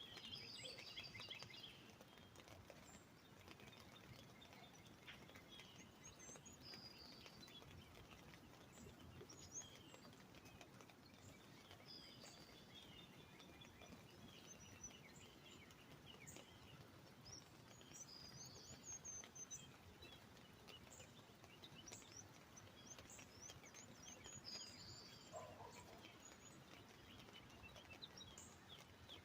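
Faint birdsong: several birds chirping and trilling in short high phrases, with a lower falling call about 25 seconds in, over a light patter of rain.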